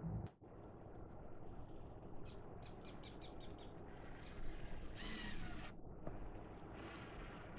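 Outdoor ambience with birds chirping and calling: a quick run of high chirps about two seconds in, and a louder call around five seconds in. A steady high-pitched whine starts near the end.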